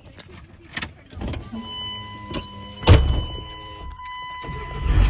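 Sounds of getting into a pickup truck's cab: a few knocks and a loud thump, likely a door shutting, about three seconds in, while a steady electronic warning chime sounds. Near the end a low diesel engine rumble comes up.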